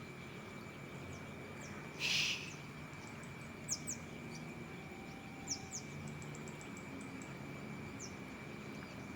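Outdoor ambience of a steady, high insect drone with short, sharp bird chirps, louder pairs coming about four and five and a half seconds in. A brief hiss about two seconds in is the loudest sound.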